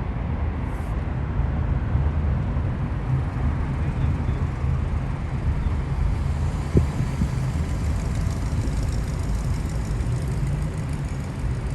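Steady low rumble of road and engine noise from inside a moving car, with one brief tap about seven seconds in.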